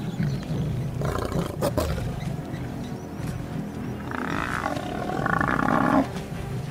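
Lions growling and snarling as they wrestle a buffalo, with a louder drawn-out snarl or call from about four to six seconds in.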